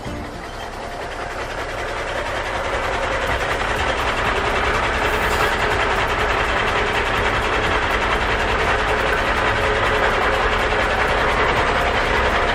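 Steady mechanical running noise, like a machine or vehicle, building up over the first few seconds and then holding level.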